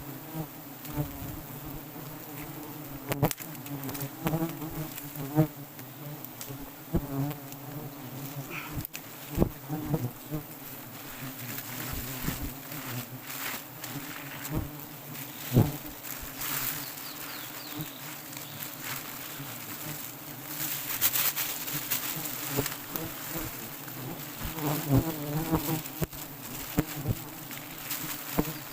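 A swarm of honeybees buzzing steadily around a large wild nest that is being harvested, with scattered knocks and clicks over the buzz.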